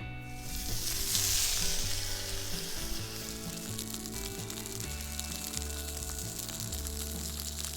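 Food sizzling in a hot cast-iron skillet: the sizzle rises sharply about half a second in as the food hits the pan, is loudest for the next second or two, then settles to a steady sizzle.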